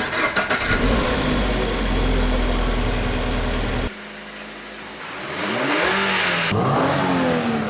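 Car engine running loud and steady, then a sudden cut; after the cut the engine revs, its pitch rising and falling.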